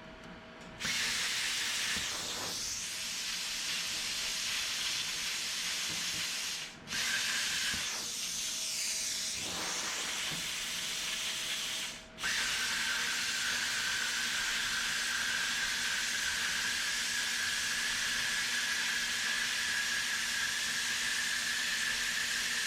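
Plasma cutter running with a loud steady air hiss, switching on about a second in and cutting out briefly twice before resuming.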